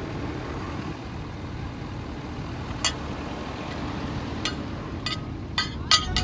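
Steady low rumble of a motor vehicle running, with a few sharp clicks or knocks in the second half.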